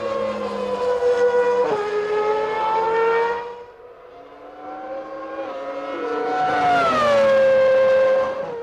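Formula One racing car engines at high revs, heard twice: the first with a sudden drop in pitch about two seconds in, as at a gear change, then fading; the second building up and then sliding down in pitch near the end.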